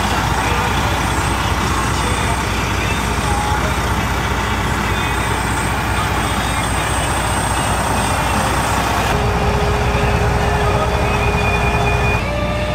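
2005 Freightliner Columbia's heavy diesel engine running steadily, a dense continuous rumble; the sound shifts abruptly about nine seconds in.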